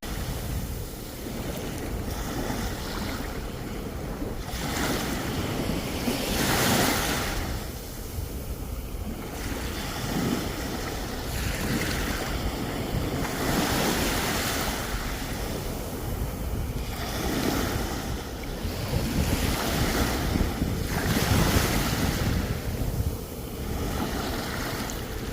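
Sea waves breaking and washing ashore, swelling in surges every few seconds, with wind rumbling on the microphone.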